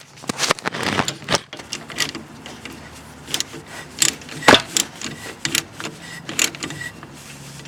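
Ratchet wrench clicking and metal tools clinking irregularly while a bolt is driven into the shaft of a lawn tractor's variable speed pulley, with one sharper knock about halfway through.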